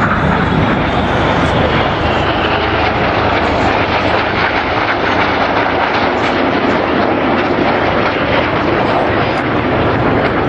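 BAE Hawk T1 jets flying a display overhead: a loud, steady rush of jet-engine noise that holds throughout.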